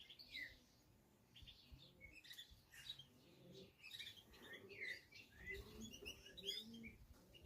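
Faint chirping and twittering of small wild birds: many short, high calls scattered throughout.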